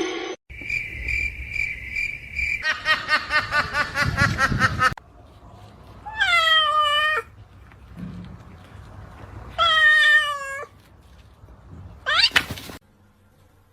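A domestic cat meowing three times: two drawn-out meows that fall in pitch, then a short rising one near the end. Before them, a pulsing high tone and then a fast rhythmic pulsing sound.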